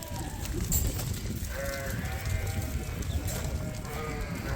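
Suffolk ewe lambs bleating: a short bleat at the start, one longer bleat about a second and a half in, and another short one near the end, over a steady low rumble.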